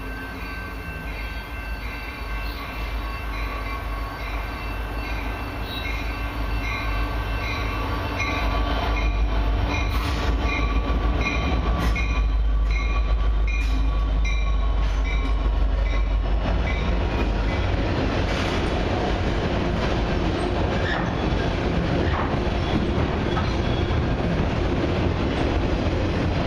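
A CN EMD SD75I diesel locomotive, running alone at the head of a westbound autorack train, approaches and passes. Its low engine rumble builds to its loudest about halfway through, with a bell-like tone ringing about once a second. After that come the rolling and wheel clatter of the autorack cars going by.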